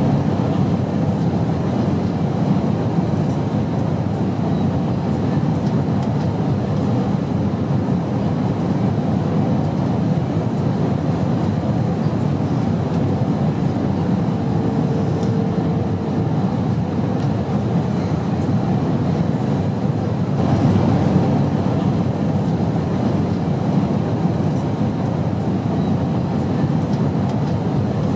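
Airplane engine noise: a steady, unbroken low drone with no change in pitch, and a faint brief tone about halfway through.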